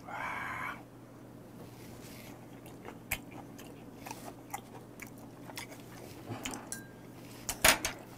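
Close-miked chewing of raw beef liver with a slice of raw garlic: soft wet mouth clicks and small crunches, with a brief pitched hum at the start and a few louder smacks near the end.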